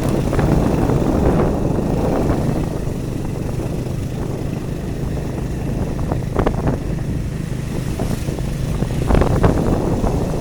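Vehicle running along a road, with a steady low rumble and wind buffeting the microphone; a few brief louder crackles come about six seconds in and again around nine seconds.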